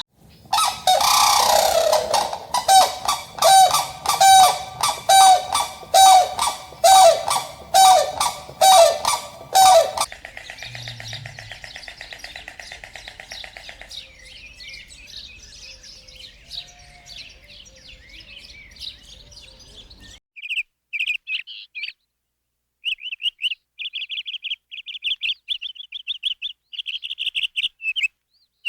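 Farm fowl calling: a bird honks over and over, a little under two calls a second, for about ten seconds. After a quieter stretch, young birds peep in quick high runs.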